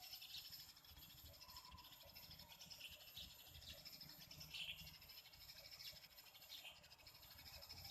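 Near silence with a few faint, scattered short sparrow chirps.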